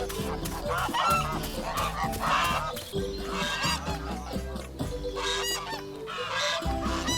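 Repeated cartoon farm-bird calls, short and pitched, over background music with steady low notes.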